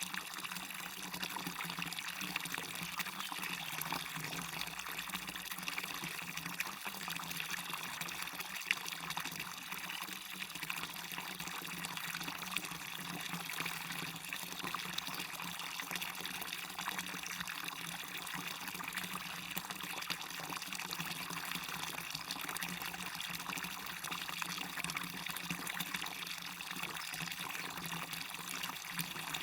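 Waterfall and river water running steadily, an even, unbroken rush of water.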